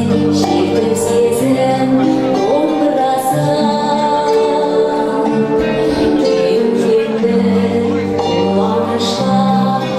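A song performed live: singing over instrumental backing music, with long held notes.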